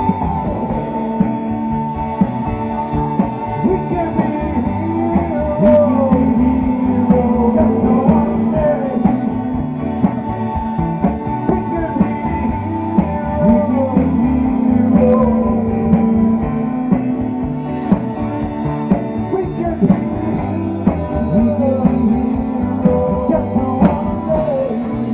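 Rock band playing: electric guitar with a melody line bending in pitch over held chords, and a drum kit keeping the beat.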